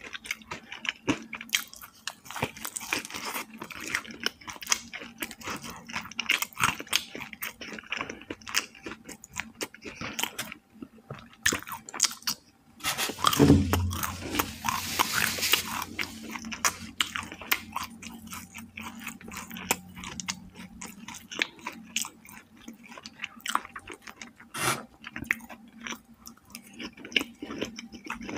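Close-miked chewing and crunching of fried chicken with crisp breading, with wet mouth sounds and many small crackles. About halfway through there is one louder thump followed by a couple of seconds of brighter rustling noise.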